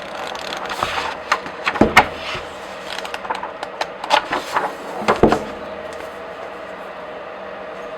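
Pages of a comic book being flipped by hand: a quick run of crisp paper rustles and snaps as page after page turns over, loudest about two seconds in and again about five seconds in. The flipping stops well before the end.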